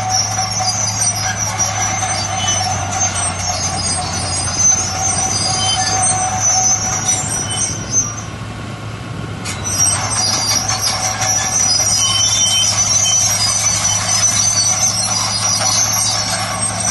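Bulldozer working, its steel tracks squealing over a steady engine hum. The squealing stops for about a second and a half near the middle, then resumes.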